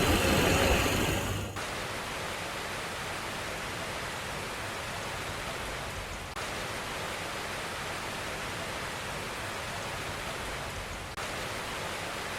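A vehicle engine running for about the first second and a half, then a sudden cut to a steady rush of water noise with two brief dips.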